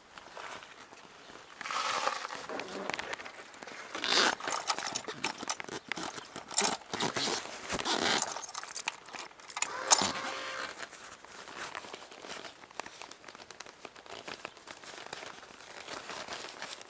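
Irregular rustling and crinkling close to the microphone, with scattered sharp clicks and a louder knock about ten seconds in; no engine is running.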